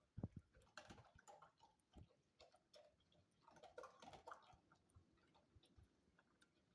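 Faint, irregular chewing and crunching clicks from a pet eating its food, with one sharper tap shortly after the start.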